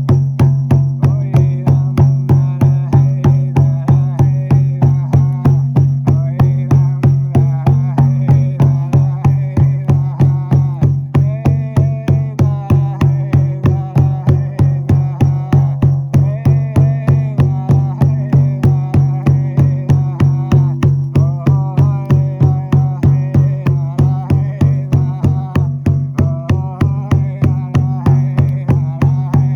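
Ritual music: a frame drum beaten in a steady, even pulse of about three to four strokes a second over a low steady drone, with a wavering melody above.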